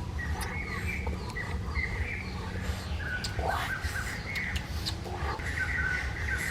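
Birds chirping in short repeated calls, with a few faint clicks over a steady low rumble.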